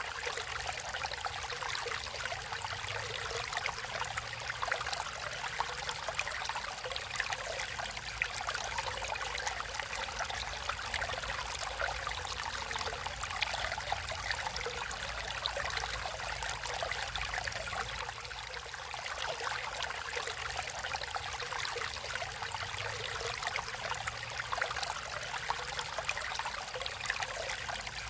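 Natural stream water flowing and trickling steadily, a continuous babbling splash with no pauses.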